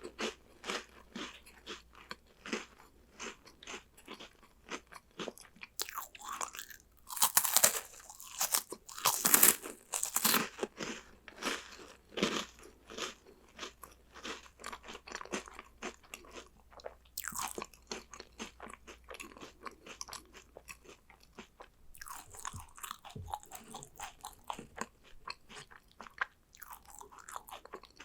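Close-miked biting and chewing of crunchy chocolate snacks: a steady string of small crunches with several louder bites, the loudest about seven to ten seconds in.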